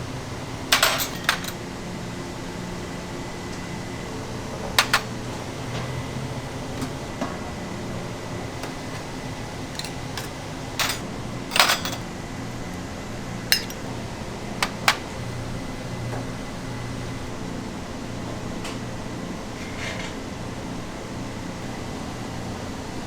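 Kitchenware clinking: a handful of sharp, separate metal-and-dish knocks, some in quick pairs, over the steady hum of kitchen ventilation.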